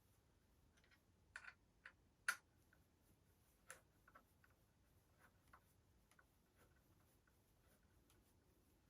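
A few faint, irregular clicks and taps, the sharpest about two seconds in, as of small gun parts being handled and fitted together.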